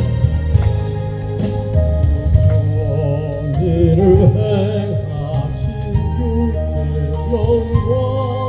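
Solo voice singing a gospel hymn with vibrato over keyboard accompaniment, the melody coming in about two and a half seconds in.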